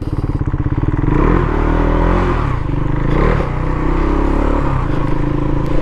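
Husqvarna Svartpilen 401's single-cylinder engine pulling away under acceleration: the pitch climbs and drops twice as it goes up through the gears, then settles into a steady run.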